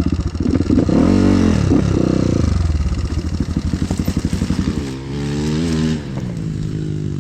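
Dirt bike engine running on the road, climbing in pitch under throttle about a second in, then dropping and pulling steadily again, with a further change in pitch around two-thirds of the way through.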